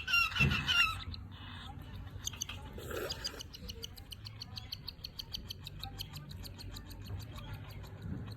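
Pet parrots calling: a loud harsh call in the first second, then quieter, rapid high-pitched chirping that keeps going.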